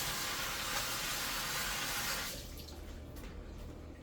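Water running in a steady stream for about two and a half seconds, then stopping abruptly.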